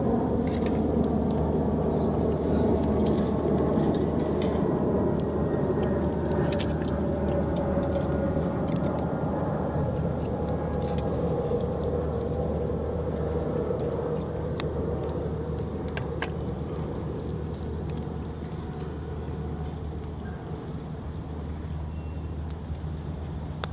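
Low engine rumble with a steady hum and faint tones that slowly fall in pitch, growing gradually quieter, with scattered faint clicks.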